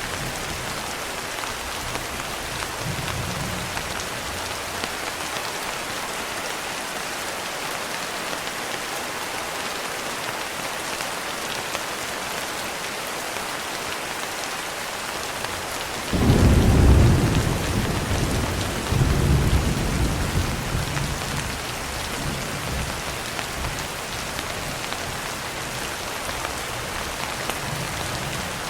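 Steady rain pattering on window glass. A little past halfway a low thunder rumble breaks in suddenly, swells again a few seconds later, then fades away under the rain.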